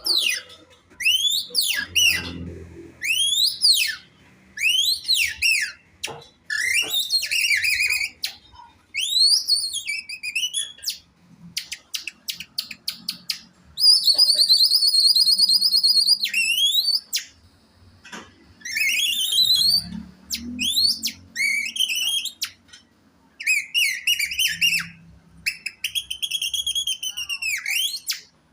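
Birdsong imitated by a man whistling through a piece of plastic: a string of shrill, high-pitched chirps, rising sweeps and fast trills in short bursts, with a long warbling trill near the middle.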